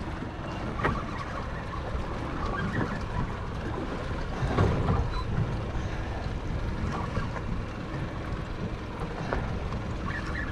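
Wind buffeting the microphone over the wash of the sea around an offshore fishing boat, a dense steady rumble with a few brief knocks.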